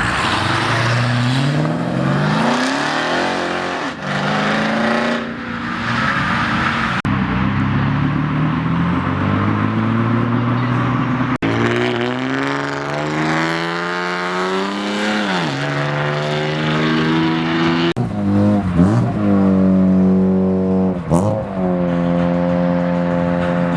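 Several cars accelerating hard one after another, their engine notes climbing steeply, dropping at each gear change and climbing again. Near the end one engine is revved up and down several times.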